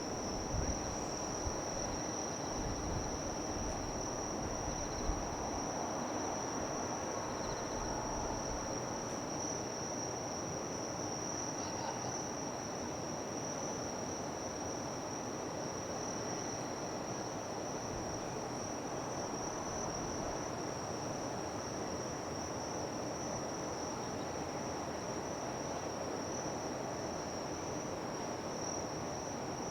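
Insects chirring, one steady high-pitched band with no breaks, over a constant low background rumble of harbour and city.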